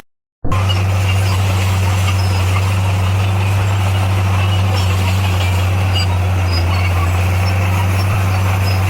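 Diesel engine of a motor grader running steadily under work, a constant low drone. Just after the start the sound cuts out completely for about half a second, then resumes unchanged.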